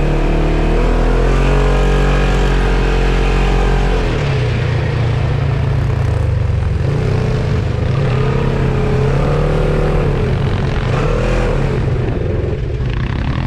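Off-road vehicle engine running under throttle. Its pitch climbs for the first few seconds, drops sharply about four seconds in, then rises and falls twice more.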